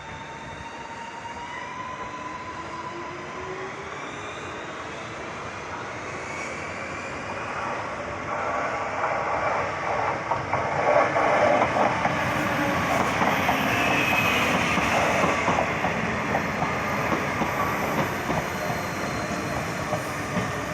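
Renfe Cercanías electric commuter trains running through the station: traction motors whining with shifting pitch, and wheels clattering over the rail joints. The sound builds to its loudest about halfway through, then eases slightly.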